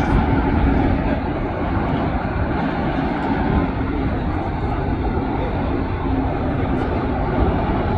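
Jet airliner engine noise, a loud, steady rush with a faint hum underneath and no clear rise or fall.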